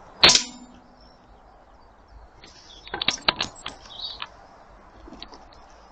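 A single air rifle shot about a quarter second in, a sharp crack with a brief low ring after it. A quick run of small clicks and chirps follows about three seconds in.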